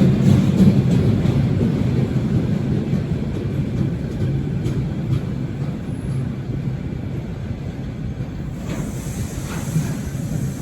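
A train running past on the tracks: a steady low rumble with faint scattered clicks, slowly easing off. A brief hiss rises near the end.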